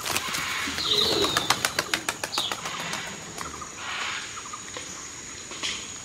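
Wild bird calls in natural ambience: a quick run of sharp clicks with a short gliding whistled call in the first couple of seconds, then softer hissing calls, over a steady high-pitched whine.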